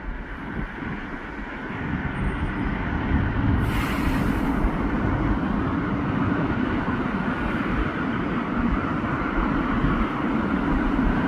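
Steady rumble of passing vehicles that grows louder about two seconds in and then holds, with a brief hiss a little under four seconds in.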